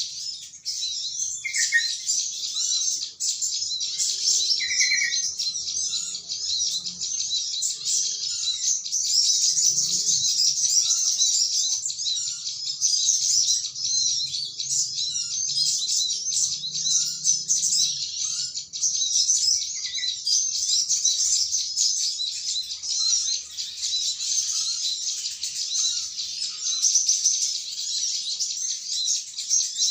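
Dense, unbroken high-pitched twittering of a flock of many small birds calling together, with a few scattered lower notes now and then.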